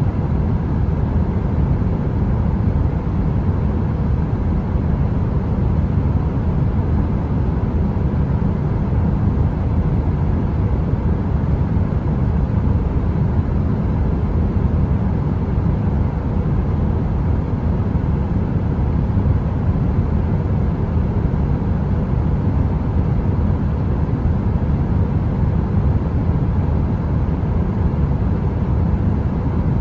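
Heater running: a steady, deep noise with a faint hum underneath that stays unchanged throughout.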